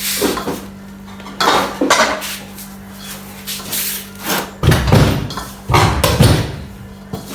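Kitchen utensils clattering: bowls and spoons knocking together as ingredients are handled, in irregular bursts with a few heavier thumps about five seconds in.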